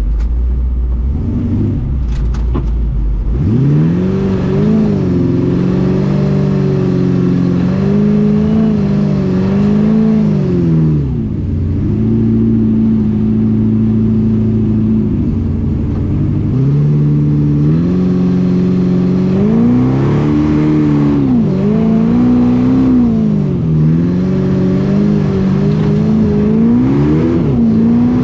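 Engine of an FJ40-based off-road buggy heard from on board, revving up and down again and again, with a few stretches of steady throttle in between.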